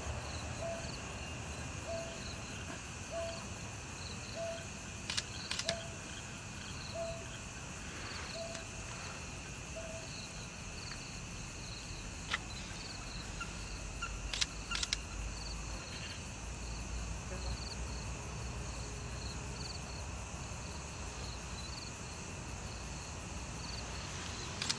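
Night insects chirping steadily in rows of short, high pips. A lower note repeats about every second for the first ten seconds, and a few sharp clicks stand out in the middle.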